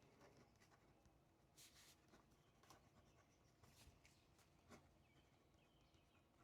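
Near silence with faint pen-on-paper writing: short scratchy strokes and small clicks, one longer scratch about one and a half seconds in.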